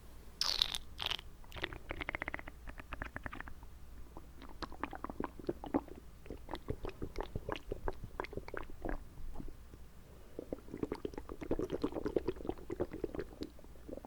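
Close-miked wet mouth sounds: water moving in the mouth with many quick clicks and pops. They come in quick runs early on and again in a denser stretch near the end.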